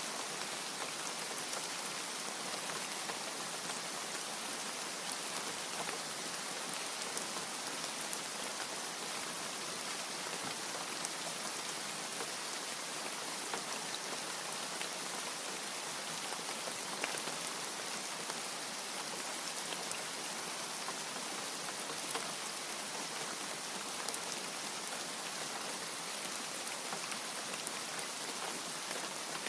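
Steady rain falling: an even hiss of rain with scattered sharp drop ticks and no thunder.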